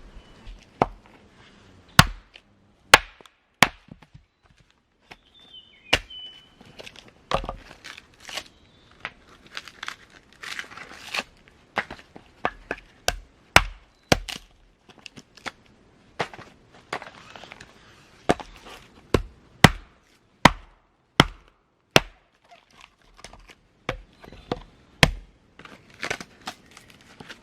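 A series of sharp chopping knocks as a tool strikes wood, coming irregularly about once a second. A short high chirp sounds around five seconds in.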